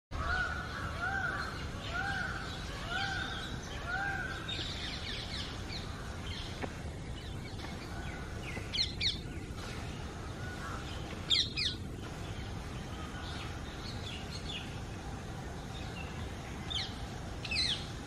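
Wild birds calling: one bird gives five arched calls in a row, about one a second, in the first few seconds, followed by scattered chirps and a few sharp, high, falling calls, over steady background noise.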